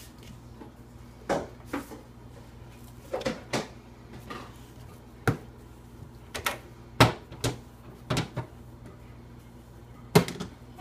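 Containers knocking and clattering as they are moved around inside a refrigerator: about a dozen irregular short knocks over a steady low hum.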